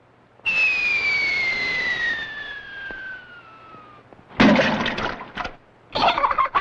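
Cartoon sound effect: a long falling whistle that drops steadily in pitch for about three and a half seconds, then a loud crash about four seconds in.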